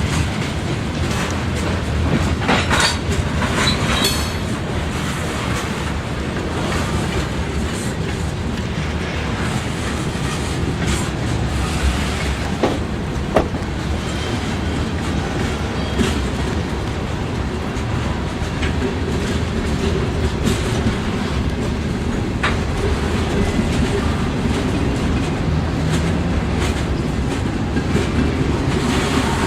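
A train rolling past: a steady rumble of wheels on rail, with irregular clicks and clacks over the rail joints.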